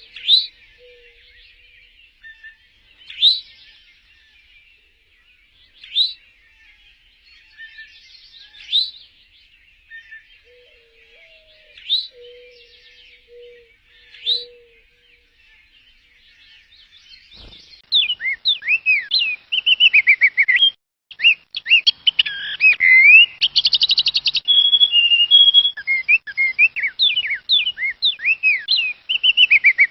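Birdsong. At first a single rising chirp repeats about every three seconds over a faint background chorus, with soft low notes now and then. About two-thirds of the way in, it switches abruptly to a loud, continuous, varied songbird song of fast trills, slurred whistles and a brief buzzy rattle.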